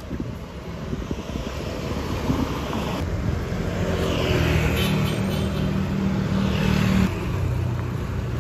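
Train running, its rumble building over the first few seconds, with a steady low hum through the middle; the sound changes abruptly twice.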